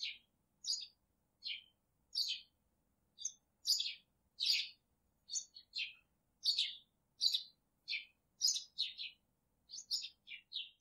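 Small birds chirping: a steady run of short, high chirps, about one or two a second, with brief pauses between them.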